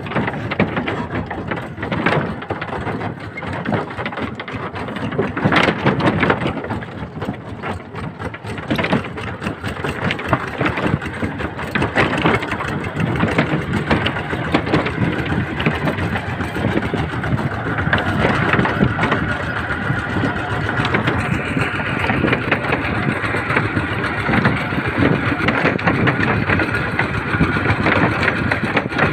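Small tractor's engine running steadily with a fast rattle. A steady higher whine joins about two-thirds of the way through.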